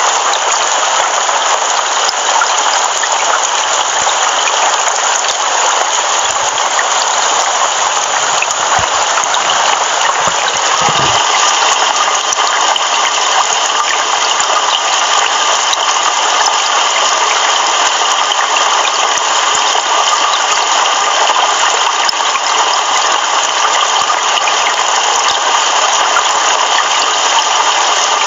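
Heavy rain pouring steadily, an even hiss. About eleven seconds in its tone shifts slightly.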